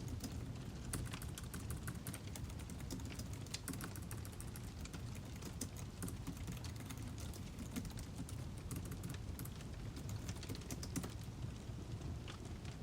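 Burning firewood crackling: a dense, irregular run of small sharp pops and snaps over a steady low rumble.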